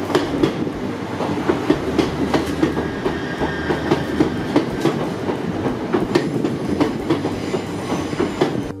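c2c electric multiple-unit passenger train running past, its wheels clicking over rail joints in an even clickety-clack of about two to three clicks a second over a steady rumble and hum.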